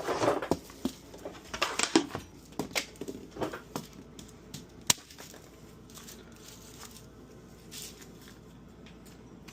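Hands handling things: a run of short rustling and scraping noises for about four seconds, one sharp click near the middle, then low room tone.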